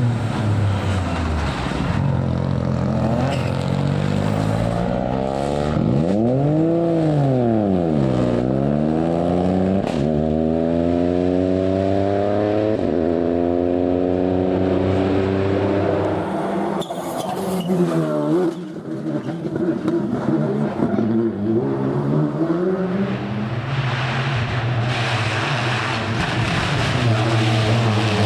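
Rally car engine revving hard on a stage, climbing in pitch through the gears and dropping sharply on lifts and downshifts several times over.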